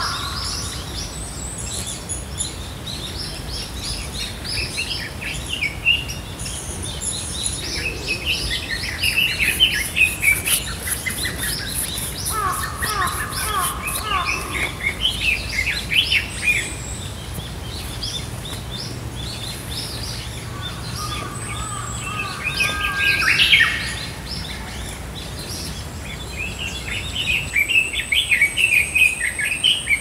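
Forest birdsong: several birds chirping and trilling in short, overlapping phrases of different kinds.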